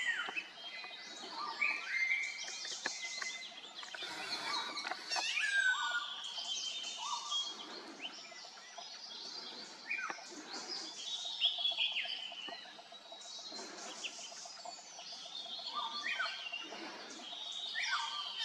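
Birds calling in a busy chorus: many short chirps and whistles, some sliding up or down in pitch, overlapping without a pause.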